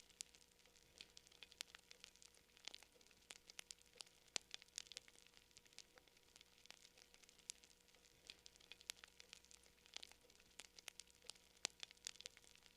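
Quiet campfire crackling: wood snapping and popping in irregular sharp clicks, several a second, over a faint hiss.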